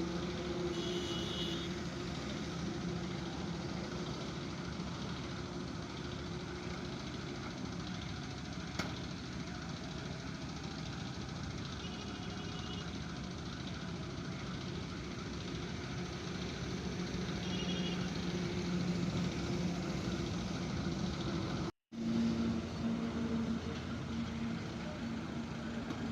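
Heavy vehicle engine running steadily amid road noise, with a single click about nine seconds in. The sound cuts out briefly near the end.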